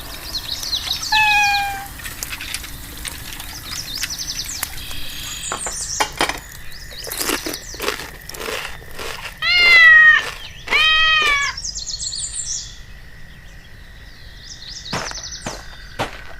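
Cat meowing: two long meows that rise and fall, one after the other about ten seconds in, and a shorter meow near the start. High, short chirps and a few sharp clicks come in between.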